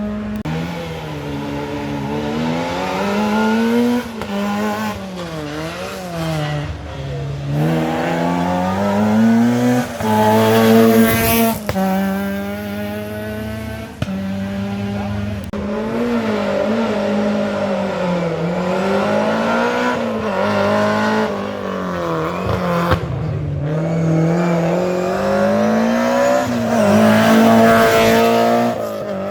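Rally cars at full attack on a tarmac special stage: engines revving hard and dropping back with each gear change and corner, with short breaks in the note.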